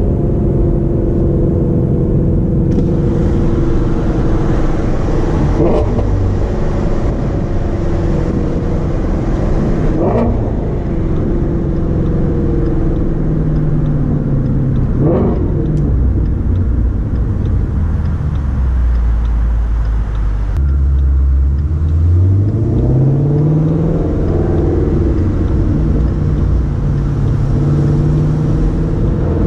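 2017 Ford Shelby GT350's 5.2-litre flat-plane-crank V8 heard from inside the cabin, over tyre and road noise. It runs steadily at cruise, drops to a low steady note past the middle, then rises in pitch as the car accelerates about three-quarters in, and settles back to a steady cruise.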